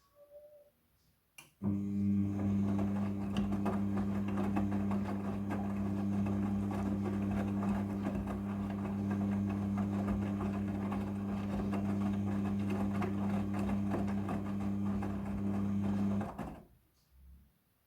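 Midea front-loading washing machine turning its drum in a wash tumble: a click about a second and a half in, then a steady motor hum with the load churning inside for about fourteen seconds, which stops and fades away near the end.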